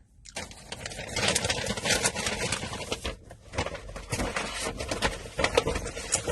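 Close-miked eating and food-handling sounds: loud, dense crackling and rustling with many sharp clicks, starting about a third of a second in.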